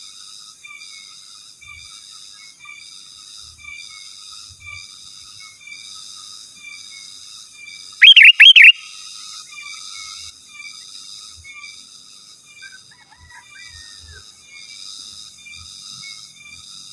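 Sooty-headed bulbul (kutilang) calling: a loud burst of three quick whistled notes about halfway through, and a softer call a few seconds later. Faint chirping repeats at an even pace underneath.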